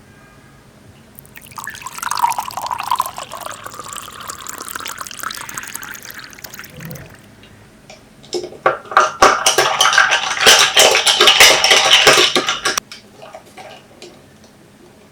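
Liquid poured into a glass twice. A first pour of about five seconds rises in pitch as the glass fills. A louder, splashier pour of about four seconds follows.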